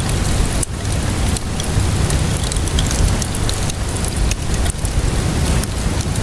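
Steady rainfall with a deep low rumble, mixed with the small scattered pops of a crackling wood fire.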